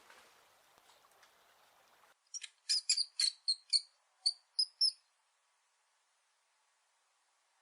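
A small animal's quick series of about ten short, high-pitched chirps, starting about two seconds in and stopping after about three seconds.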